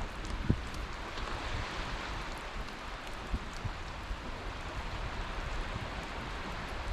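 Steady rushing outdoor ambient noise, with a few brief low thumps.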